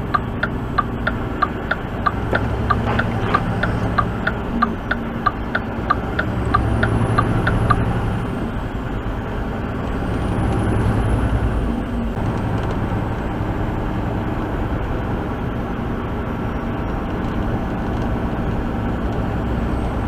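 A turn-signal flasher ticking evenly, about two and a half ticks a second, over steady engine and road noise inside a vehicle cabin; the ticking stops about eight seconds in, leaving the engine and tyre noise.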